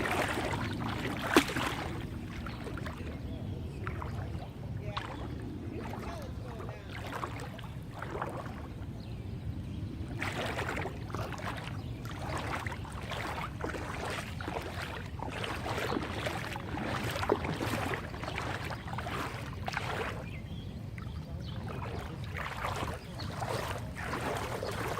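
Legs wading through knee-deep floodwater, an irregular run of sloshing splashes over a steady low rush.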